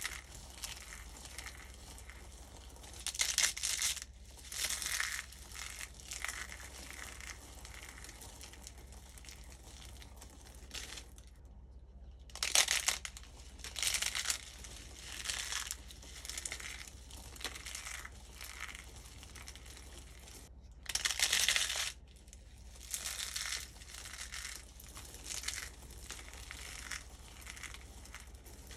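Dry starch-coated soap being crushed and crumbled in a run of irregular crackling crunches with short pauses between them.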